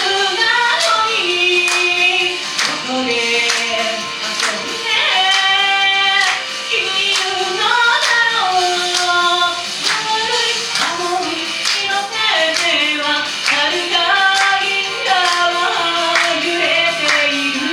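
Japanese idol pop song: young female voices singing the melody over a backing track with a steady beat.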